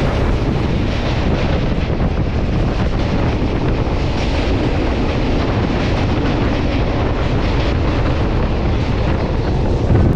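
Wind buffeting a microphone held out of a moving train's window, over the steady running noise of the train, with a brief gust near the end.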